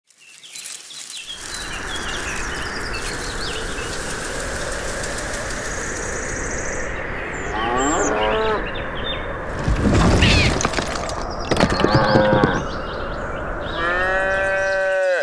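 Cattle mooing several times over a steady background hiss, the longest moo near the end. Small bird chirps are heard in the first half.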